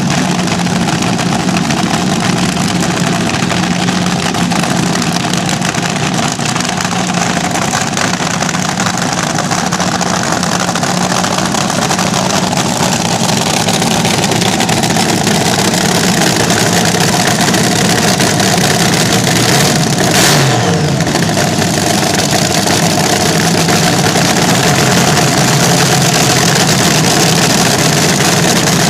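Vintage slingshot drag racer's engine running very loud and steady, with a quick throttle blip about two-thirds of the way through whose pitch falls back.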